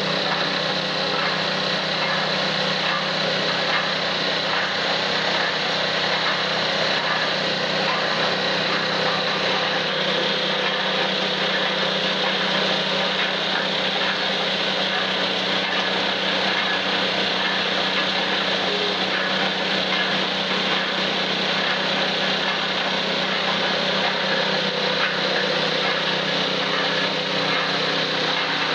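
Small petrol engine of a two-wheel mini concrete mixer running steadily at constant speed.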